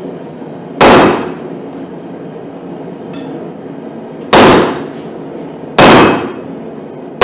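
Hammer blows on steel: four loud, sharp strikes with irregular gaps, each ringing briefly before dying away.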